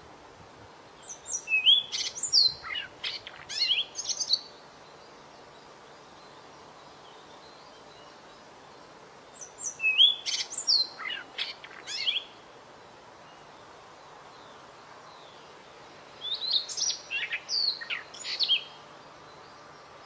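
A small songbird singing three short phrases of quick, high whistled notes and sweeps, with a few seconds' pause between them; the first two phrases are nearly the same. A steady faint hiss sits underneath.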